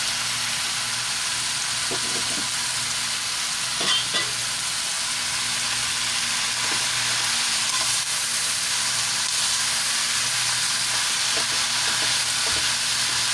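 Shredded banana heart sizzling in hot oil in a nonstick wok while it is stirred and tossed with a spatula. The steady sizzle is broken by a few knocks and scrapes of the spatula against the pan, the two sharpest about four seconds in.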